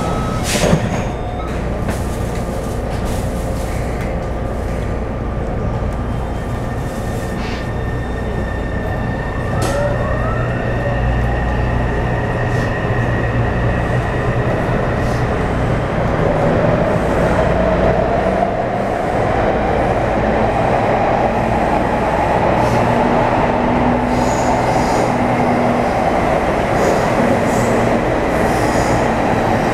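Taipei Metro C301-series train with refitted propulsion equipment, running on the line. There is a sharp click about a second in, and rising motor whines around ten seconds in. From about halfway, the rolling noise of wheels on rail builds and stays steady as the train runs at speed.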